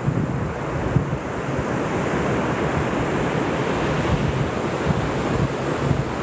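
Ocean surf washing on a beach, with wind buffeting the microphone in gusty low rumbles.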